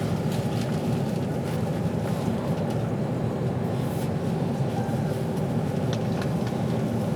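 Inside a passenger train carriage at speed: a steady low rumble of the wheels and running gear on the track, with a few faint ticks.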